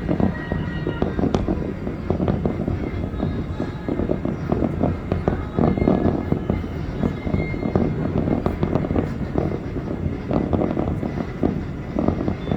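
Aerial fireworks going off in a rapid, continuous string of bangs and crackles.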